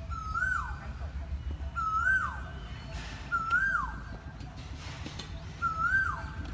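A bird calling four times, every one and a half to two seconds. Each call is a short clear whistled note that rises slightly, holds, then slides sharply down.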